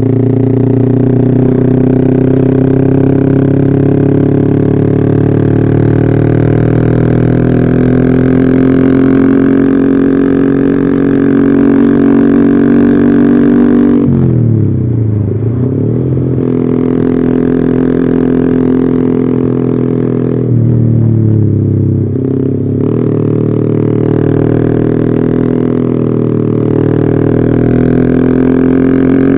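Yamaha R15 V3's single-cylinder engine running through an Arrow aftermarket exhaust, a steady engine note that twice drops sharply in pitch and climbs back up, about halfway through and again some seconds later.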